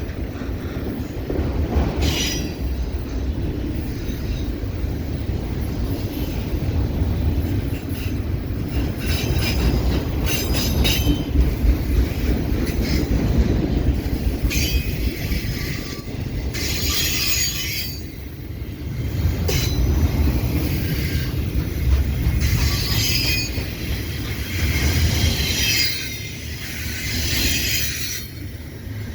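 CPKC freight train cars rolling past with a steady low rumble, their wheels squealing in repeated high-pitched bursts every few seconds.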